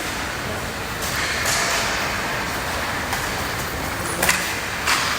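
Steady hockey-rink noise during play, with several short sharp knocks, the clearest two near the end.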